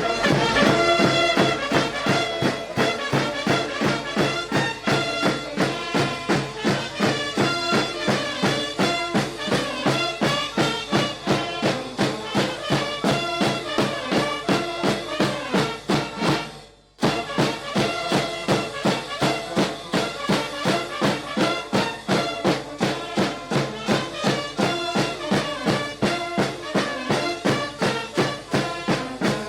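Brass band music with a steady march beat. About 17 seconds in it fades out briefly and starts again abruptly.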